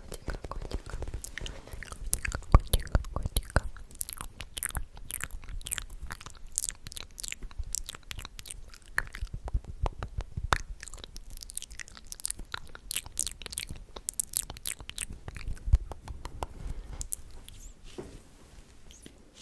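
Close-miked ASMR mouth sounds: a dense, irregular run of wet mouth clicks and lip smacks, thinning out near the end.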